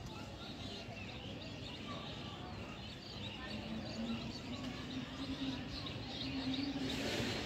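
Many small birds chirping and twittering over a steady background hum, with a low steady drone joining about halfway through.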